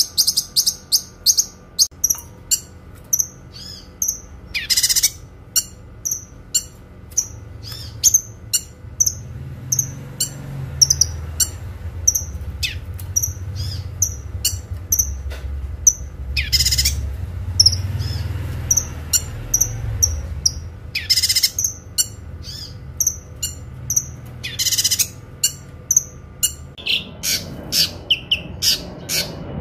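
Kinoi bird singing: a steady series of short, sharp, high chirps at about two a second. A longer, louder call breaks in every few seconds. A low rumble sits underneath through the middle.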